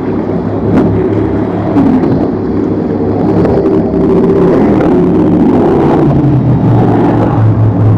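Boat engines running, with the engine note wavering up and down as the throttle changes; the sound grows louder about halfway through.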